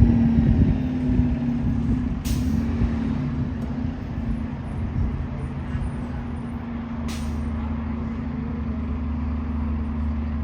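Transit bus engine running with a steady hum, with two short hisses of air from its air brakes, one about two seconds in and another about five seconds later.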